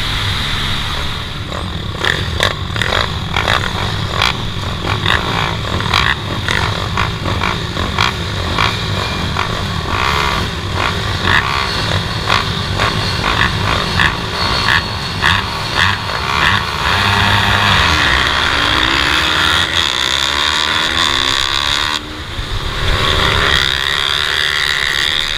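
Racing pit bike engine revving hard, its pitch rising and falling with throttle and gear changes.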